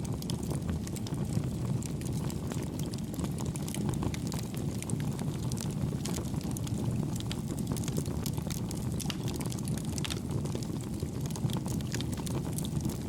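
Campfire burning: a steady low rumble of flames with frequent small crackles and pops scattered through it.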